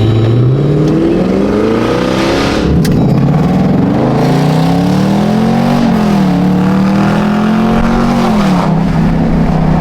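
Car engine accelerating hard: its pitch climbs, falls back sharply about three seconds in as it shifts up, climbs again, then eases off to a lower steady drone near the end.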